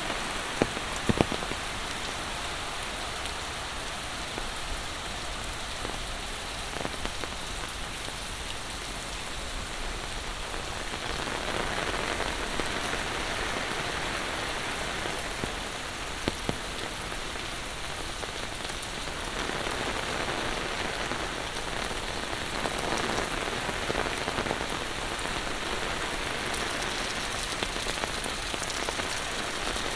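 Steady monsoon rain falling, with a few sharp taps, near the start and again about halfway through.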